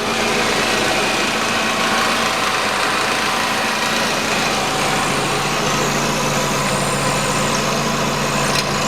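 Nissan Qashqai's 2.0-litre petrol engine idling steadily, heard from beneath the raised car, with an even hum.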